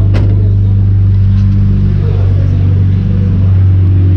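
Car engine idling steadily under an open hood, a loud, even low hum. A brief click sounds just after the start.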